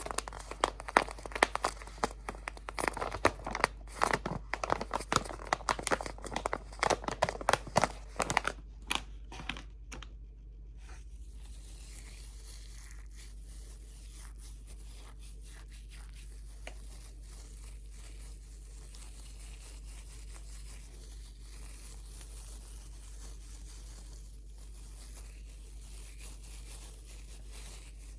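Crinkly material crumpled right up against the microphone: dense, loud crackling for about the first eight seconds. It then drops suddenly to soft, sparse crinkles over a steady high hiss for the rest.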